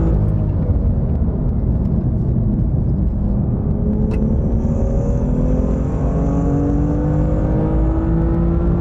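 BMW M2's turbocharged straight-six engine running steadily at moderate revs, the pitch dipping slightly and then rising slowly as the car gathers speed toward the end.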